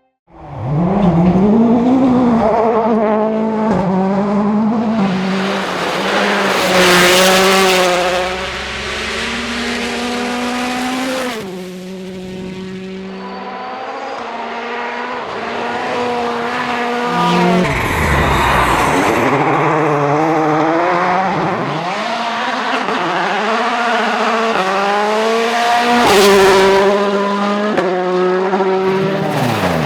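World Rally Cars racing flat out on gravel stages, one car after another: turbocharged four-cylinder engines revving hard, the pitch climbing and dropping with each gear change, and the sound cutting abruptly from one car to the next several times. A couple of loud hissing rushes come as cars pass close.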